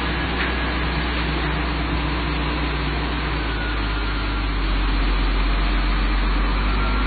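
Toyota Supra MK3's 7M-GTE turbocharged straight-six idling steadily just after being started, growing a little louder about two-thirds of the way through.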